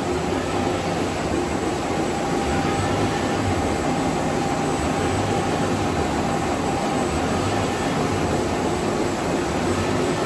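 Nesil-Huada NSL-HD-350 roll-fed offset label printing press running, a steady, dense mechanical noise with faint steady hums.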